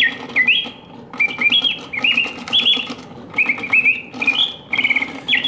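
Antique Bontems singing bird cage automaton playing, its clockwork-driven bellows and piston whistle producing realistic birdsong. The song comes in short phrases of rising chirps and quick trills, with brief gaps between them, over a faint steady low hum from the movement.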